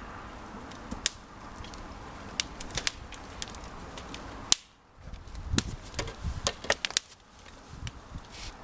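Wood fire crackling and popping in a washing machine drum fire pit: irregular sharp snaps over a low rumble.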